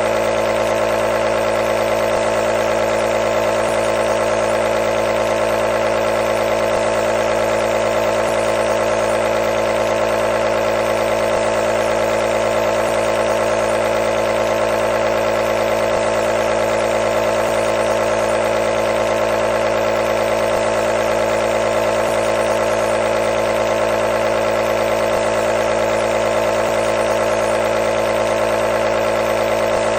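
Compressor nebulizer running continuously: a steady, even mechanical buzz from its small air compressor.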